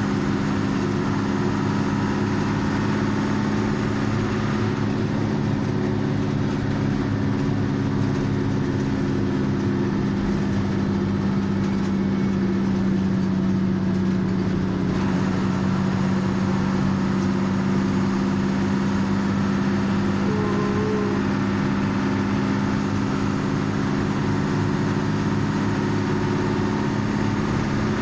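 Bus engine running at a steady speed, a constant hum that neither revs up nor drops.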